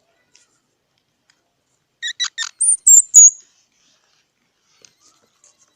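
Squirrel calling: after about two seconds of quiet, a quick run of short, sharp chirps followed by a couple of high, thin squeaks, all within about a second and a half.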